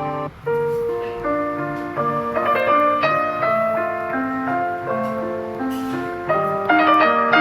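Samsung Galaxy S24 ringtone: a piano-like melody of single stepping notes. It starts about half a second in, after a brief break from the previous tone, and grows louder near the end.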